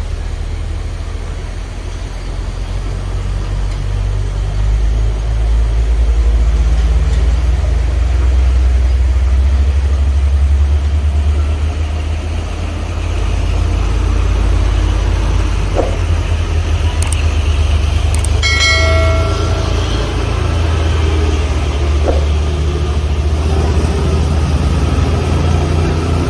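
Heavy truck engines running with a deep, steady drone. A vehicle horn sounds once, for about a second and a half, about two-thirds of the way in.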